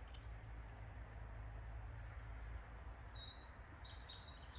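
A few faint, short, high bird chirps over a steady low background rumble, the chirps clustering near the end.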